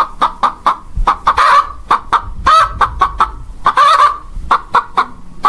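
Chickens clucking: a quick, uneven run of short calls, three or four a second, with a few longer, drawn-out ones mixed in.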